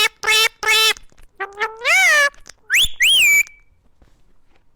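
A bird calling: a quick run of evenly spaced, nasal calls, then a longer call that rises and falls, and two high whistled calls that stop about three and a half seconds in.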